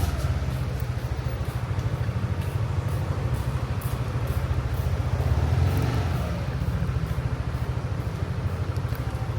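Motorbike engine running at low speed, a steady low pulse of the engine firing.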